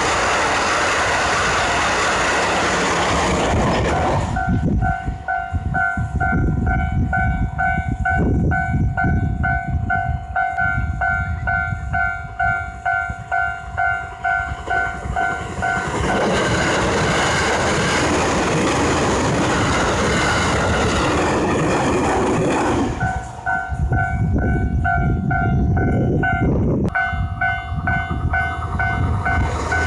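Trains running past on the rails with a loud rushing rumble. Twice in between, a railway level-crossing warning bell rings in a quick, even pulse.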